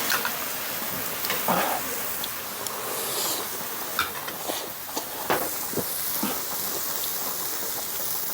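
Pork sizzling steadily on a grill, with scattered short clicks and taps.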